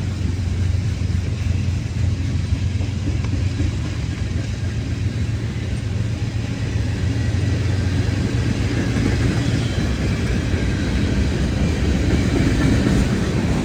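Passing train, a steady loud rumble.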